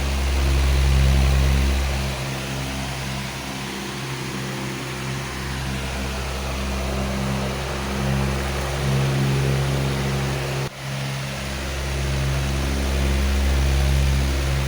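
Powerful electric fan running steadily: a low motor hum under a broad rush of air, slowly swelling and easing, with a brief sharp dropout about two-thirds of the way through.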